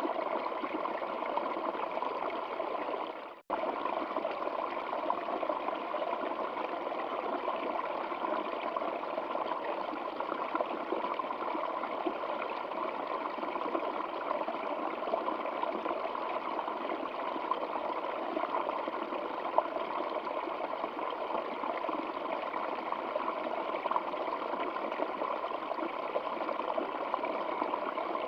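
Stream water running steadily, a continuous trickling babble. About three seconds in it fades out for an instant and cuts straight back in.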